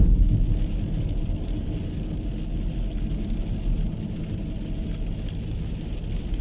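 Heavy rain falling, with a steady low rumble underneath and a faint hiss above.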